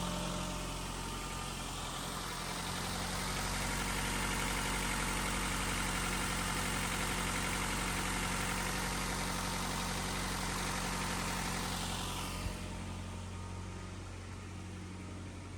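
Freshly swapped engine in a 2009 Nissan Altima idling steadily after its first start, burning off oil. A steady rushing noise sits over the idle and fades away about twelve seconds in.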